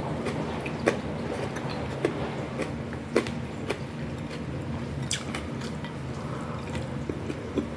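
Close-miked chewing and biting of food, with scattered sharp clicks and small crunches over a steady low background hum.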